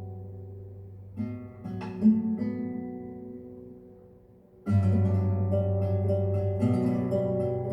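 Acoustic guitar intro of a ballad played back through a Focal K2 906 loudspeaker. Plucked notes ring and fade away almost to silence, then a full strummed passage comes in about four and a half seconds in.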